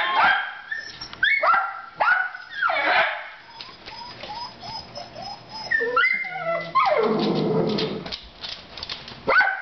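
A dog whining and yipping in short high calls that rise and fall, several in the first three seconds, with a louder, rougher stretch of noise about seven seconds in.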